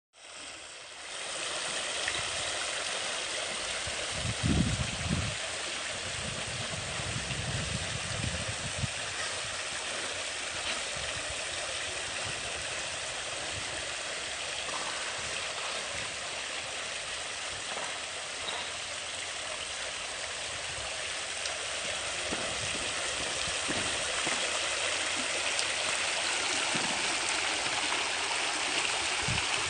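Steady rush of running water, with a few low thuds about four and a half seconds in and again around eight seconds in.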